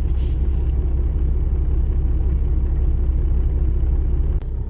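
Diesel truck engine idling with a steady low rumble. Near the end there is a click, and the rumble drops a little.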